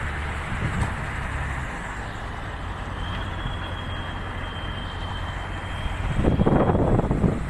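A heavy vehicle's engine running with a steady rumble, getting louder and rougher about six seconds in.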